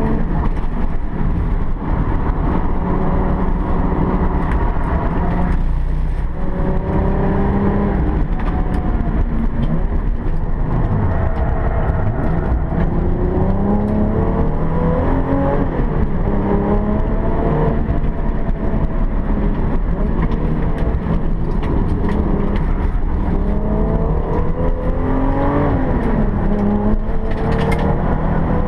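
Alfa Romeo 164 race car's engine heard from inside the cabin at racing speed, revving up through the gears again and again, with the pitch falling sharply at each shift or lift-off, over steady road and wind noise.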